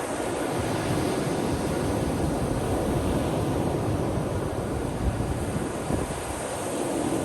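Ocean surf on a beach: a steady rush of waves breaking and washing in, with wind buffeting the microphone in low thumps.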